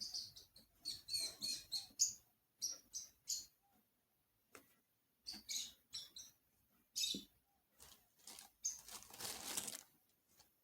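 Kitchen food-handling sounds: a series of short, crisp crackling and rustling noises with brief silent gaps between them, and a longer hissing stretch about nine seconds in.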